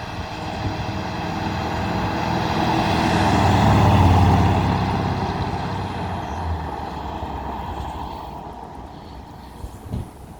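1965 Ford F-100 pickup driving with the windows open: engine and wind noise build as the truck accelerates, loudest about four seconds in, then ease off as it settles.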